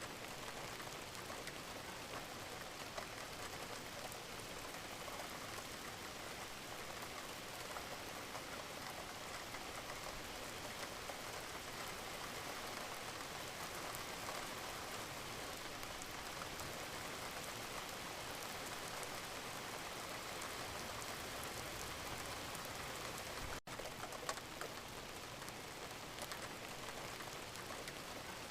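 Wood fire crackling in a fireplace: a steady hiss with many small scattered pops and snaps. About two-thirds of the way in, the sound drops out for an instant, and a sharper pop follows soon after.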